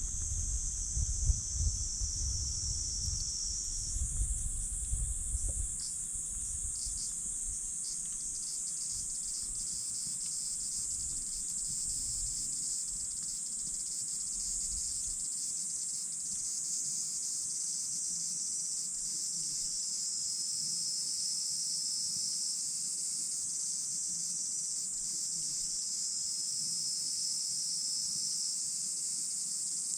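Steady, high-pitched chorus of crickets or similar night insects chirring without a break. A low rumble is heard for the first few seconds, then fades.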